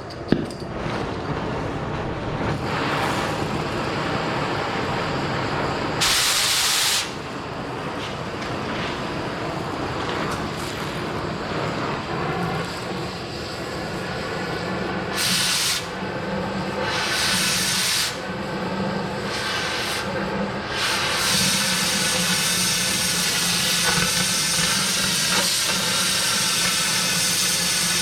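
Oxy-fuel cutting torch hissing steadily as it cuts a steel core barrel, with several short, louder hissing bursts along the way.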